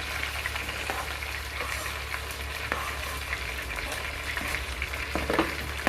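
Onion, tomato and chili frying in hot oil in a pot on a gas cooker, sizzling steadily, with a few faint clicks of stirring.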